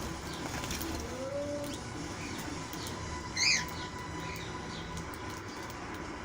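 Doves cooing low on the veranda, with faint high chirps from small birds and one sharp, loud chirp about halfway through.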